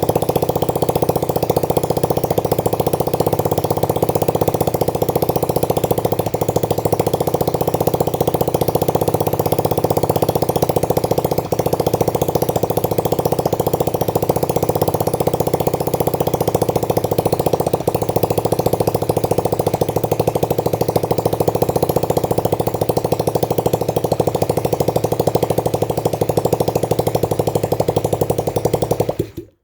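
Alpha 110 cc moped's single-cylinder four-stroke engine idling steadily with its fuel tank removed, running only on the fuel left in the carburettor. Near the end it dies out quickly as that fuel runs out.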